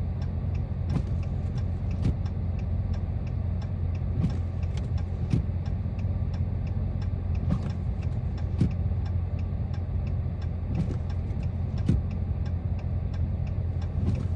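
Steady low drone of a 2022 Dodge Charger Scat Pack's 392 V8 and tyres, heard inside the cabin while driving slowly through deep snow. A fast, even ticking of about three ticks a second runs over it, with a few louder knocks now and then.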